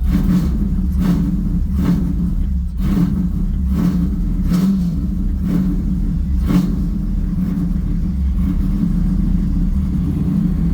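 1998 Camaro Z28's 5.7-litre LS1 V8 running at idle. A regular beat sounds about once a second until about two-thirds of the way through, then stops.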